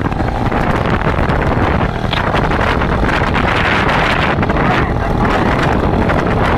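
Car driving at speed: steady engine and road noise with wind rushing over the microphone.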